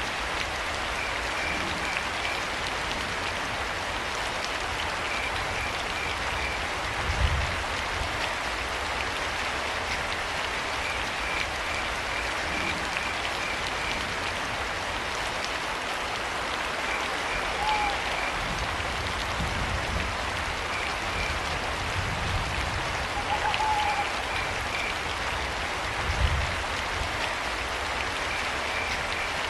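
Steady rain falling, with crickets chirping in short trains of pulses every few seconds. Two brief owl calls come past the middle, and a couple of low thuds sound near the start and near the end.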